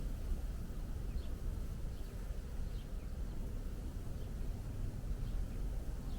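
Birds chirping faintly, short high falling chirps every second or so, over a steady low rumble.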